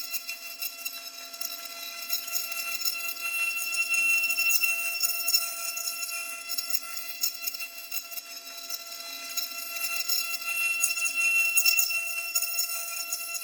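Milling spindle on a robot arm whining at a steady high pitch while cutting wood, with a hissing cutting noise that swells and eases twice.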